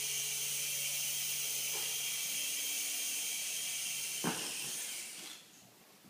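Toy remote-control helicopter's small electric motor and rotor spinning with a steady high whir. A click comes about four seconds in, and the whir stops shortly after.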